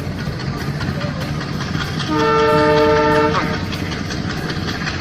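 A train horn sounds once, about two seconds in, held for a little over a second, over a steady rattling running noise.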